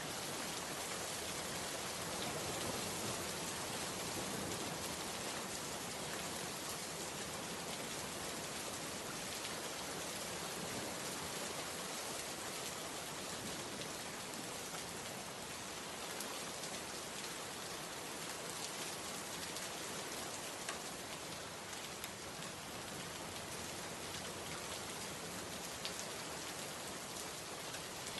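Steady rain falling on a surface, an even hiss of rain with occasional faint individual drop ticks.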